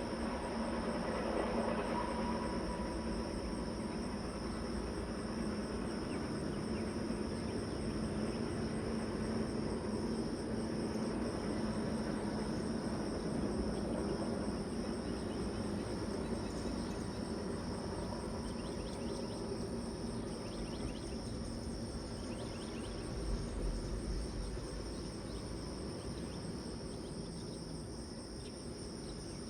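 Low rumble of a train passing through a station and slowly fading away. Insects trill steadily at a high pitch throughout, and they are left more clearly as the rumble dies down.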